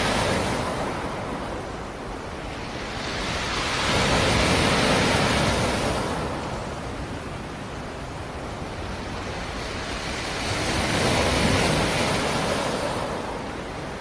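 Black Sea surf: waves breaking and washing ashore, swelling and fading about every six seconds, with two full surges in the middle and near the end.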